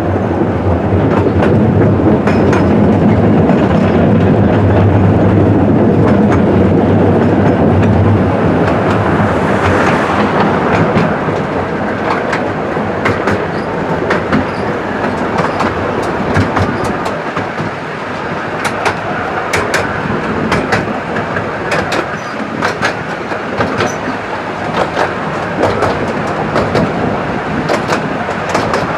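Ride aboard a Fairbourne Railway miniature-gauge passenger train: steady rolling of the carriages with wheels clicking over the rail joints. The low rumble is heavier for about the first eight seconds, then the run goes lighter with frequent sharp clicks.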